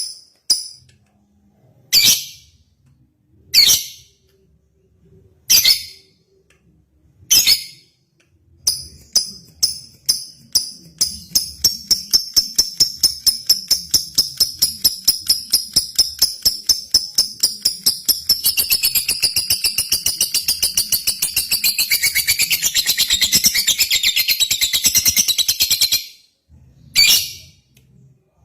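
Lovebird calling: a few single sharp chirps about two seconds apart, then a fast run of chirps that speeds up into a long continuous trill lasting about fifteen seconds and stops abruptly, followed by two more chirps near the end. The long trill is the lovebird's 'ngekek' song that Indonesian keepers prize.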